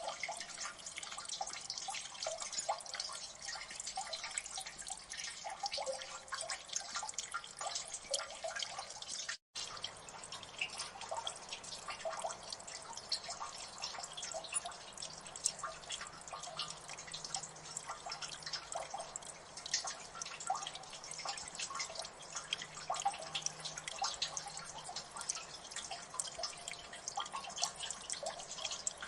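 Water dripping in a gully: many quick, overlapping drips plinking without pause. The sound cuts out completely for an instant about a third of the way through.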